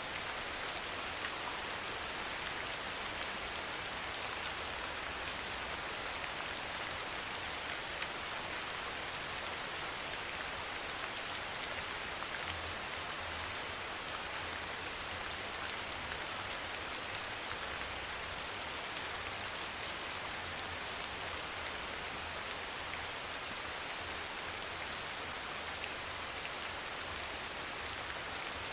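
Soft rain falling steadily: an even hiss of many drops, with single drops ticking through it and a faint low rumble underneath.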